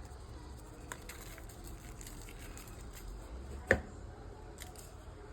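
Faint kitchen handling sounds as seasonings are put on raw chicken wings, with a few light ticks and one sharp click a little past halfway.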